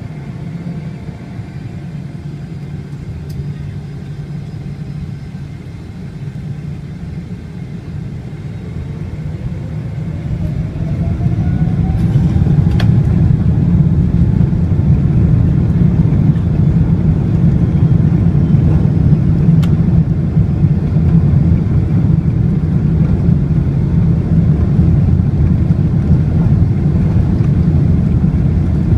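Boeing 777-300ER's GE90-115B turbofan engines spooling up to takeoff thrust: a whine rises in pitch over several seconds as the rumble grows much louder about ten seconds in, then holds as a steady loud rumble through the takeoff roll.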